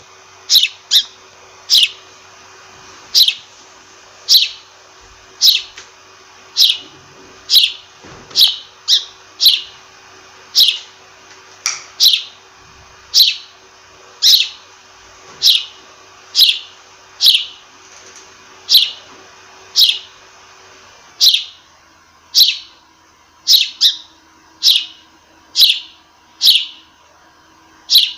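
A sparrow chirping: a steady series of single sharp cheeps, about one a second, each dropping quickly in pitch.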